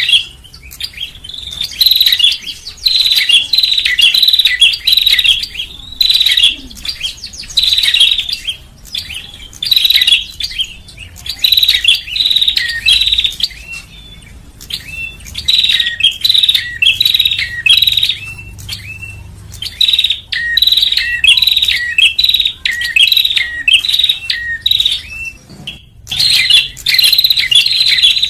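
Prinia (prenjak) calling as a bird-luring recording: rapid runs of sharp, high chirps in bursts of a few seconds, broken by short pauses.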